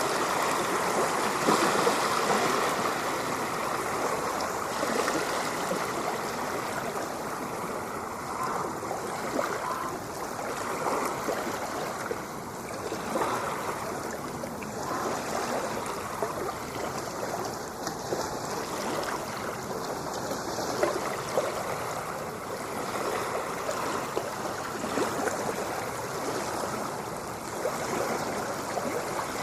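Ocean water washing and splashing in a steady, continuous rush, without distinct wave swells.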